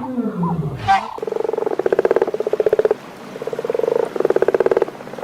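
A frog calling: about four croaking calls from about a second in, each a rapid rattle lasting under a second. A low sound falling in pitch comes first.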